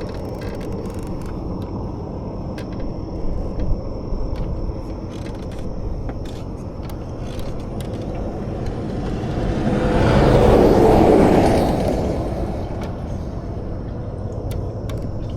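Steady low rumble of interstate traffic, with one vehicle passing close at speed about two-thirds of the way in, swelling and fading over about three seconds. Scattered light clicks run through it.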